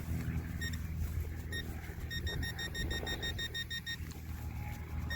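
Metal-detecting pinpointer beeping: a couple of single beeps, then a fast run of short high beeps about two seconds in as the probe finds a target in the dig hole, over a steady low rumble.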